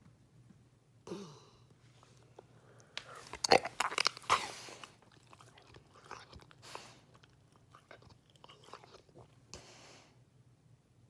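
A sleeping black Labrador snorting about a second in. From about three to five seconds in comes a loud run of wet clicks and smacks from its mouth, the loudest part, followed by softer breaths.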